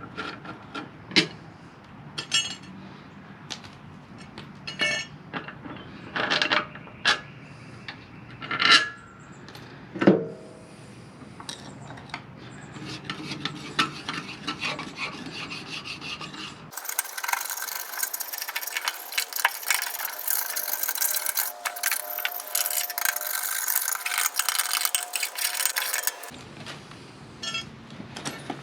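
Hand tools working on a riding mower deck's spindle hardware: scattered metal clicks and knocks, then about ten seconds of dense, rapid scraping or ratcheting, then more knocks.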